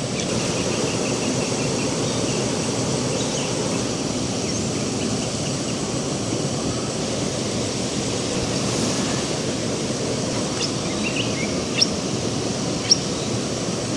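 Steady rushing outdoor background noise, with faint bird chirps and two sharp clicks near the end.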